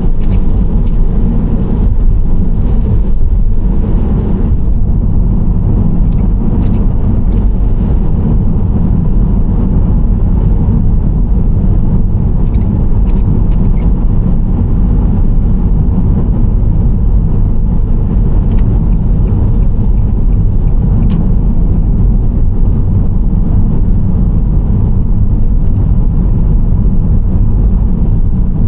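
Nissan Serena C25 minivan driving at a steady speed, giving a continuous low rumble of engine and road noise. A few faint clicks sit on top of the rumble.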